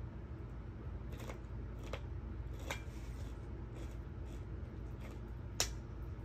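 Close-up eating sounds: chewing with a few short, sharp crunches of crisp food, the loudest about five and a half seconds in, over a steady low hum.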